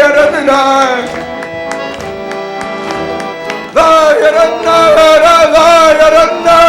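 Live folk music with sustained accordion chords. A loud wavering melody line fades about a second in, leaving the chords alone, and comes back in strongly near four seconds.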